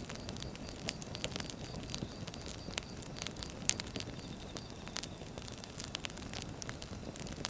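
Wood fire burning: irregular crackles and snaps over the low steady rustle of the flames, with one sharper pop a little before the middle.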